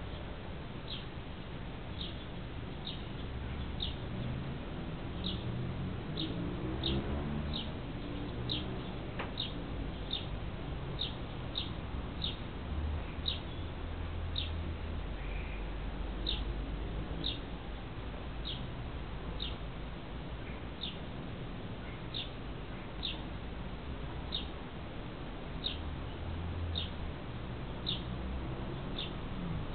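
A bird chirping over and over, short high chirps about once a second, over a steady low rumble.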